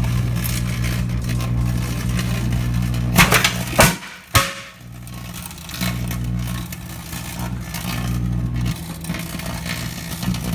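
Microwave oven running with a steady electrical hum. About three seconds in, firecrackers on tin foil inside it go off in a quick run of sharp bangs. The hum cuts out for a couple of seconds, then resumes.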